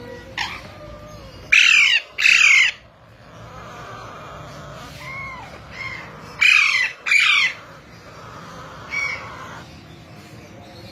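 Parrots screeching: two pairs of loud, harsh calls, each falling in pitch, about two seconds in and again about six and a half seconds in, with a few fainter calls between.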